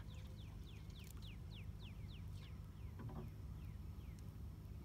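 A bird calling a rapid series of short, downward-slurred whistled notes, about five a second, which thin out and stop near the end. A low steady rumble runs underneath.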